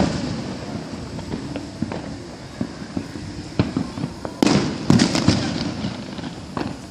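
Fireworks going off: scattered sharp pops, then a cluster of loud bangs about four and a half seconds in, each trailing off in an echoing rumble.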